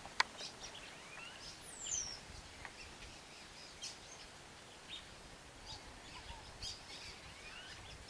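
Birds giving short, scattered chirps and calls, with a high falling whistle about two seconds in and a sharp click just after the start.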